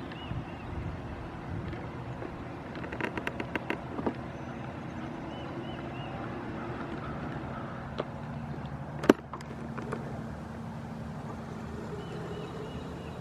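Power wheelchair motors humming steadily as the chair drives along, with a quick run of clicks about three seconds in and a sharp knock about nine seconds in.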